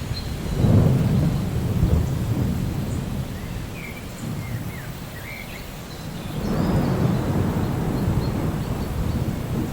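Thunder rumbling twice over steady rain in a rainforest soundscape, with a few short bird chirps between the rumbles.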